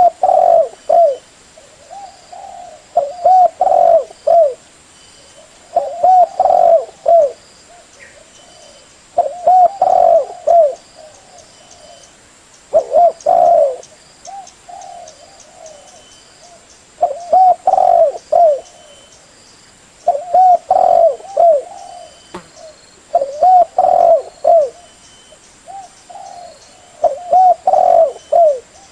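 Spotted dove cooing: a phrase of several low, rolling coos repeated about every three to four seconds, nine times.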